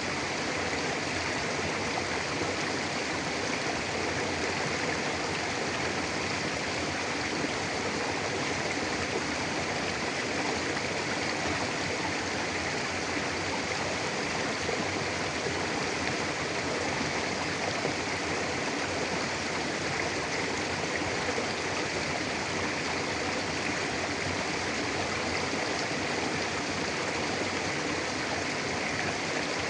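Mountain river flowing over rocks: a steady, even rush of water with no breaks or changes.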